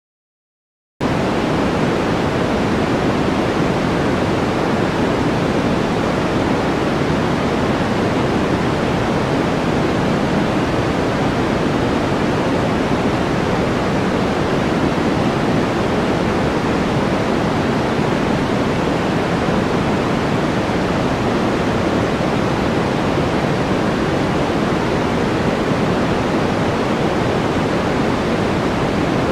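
White-noise track: a steady, even rushing hiss with a deep tilt, cutting in abruptly about a second in after total silence.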